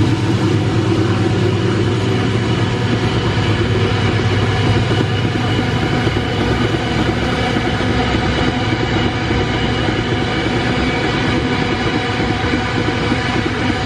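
A heavy loaded freight train's wagons rolling past at speed, steel wheels clattering on the rails. A low engine drone fades over the first few seconds as the locomotives draw away.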